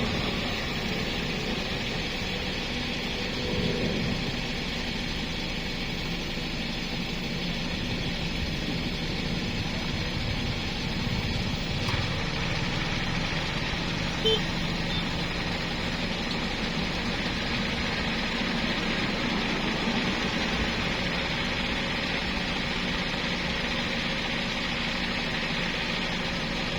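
An engine running steadily, a continuous low hum without changes in speed, with a single brief click partway through.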